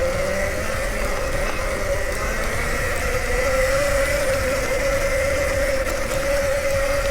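Nexvey Flash electric dirt bike's motor whining steadily as it rides, the pitch sagging slightly a few seconds in and then coming back, over a low wind and trail rumble.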